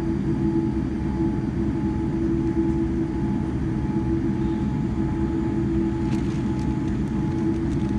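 Airliner taxiing: a steady rumble with a constant droning hum.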